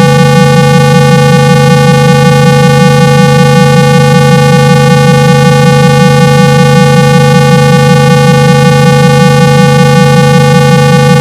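Loud, steady 165 Hz low-pitched tone with many overtones and a slight regular pulsing, a synthetic test tone played through a phone speaker to vibrate water out of it.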